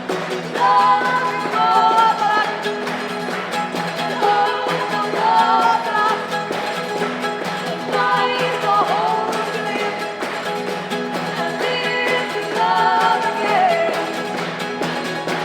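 Live band music with singing: several sung phrases over a steady held accompaniment.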